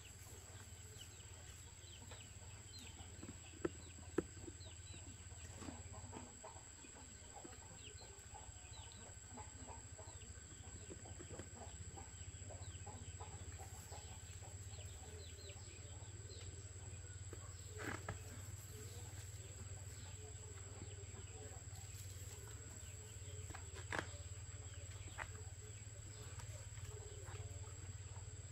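Faint, scattered bird chirps and clucking over a steady low hum, with a few sharp clicks.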